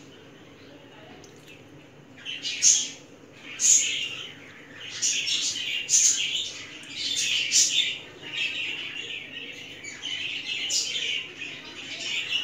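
Small birds chirping and tweeting repeatedly in short, high-pitched calls, starting about two seconds in and going on irregularly.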